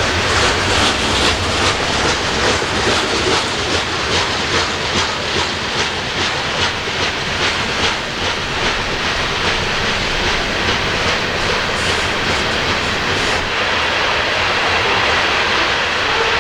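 Coal train cars rolling past, their wheels clicking over the rail joints in a steady rhythm over a continuous rolling rumble. The clicking fades near the end while the rolling noise carries on.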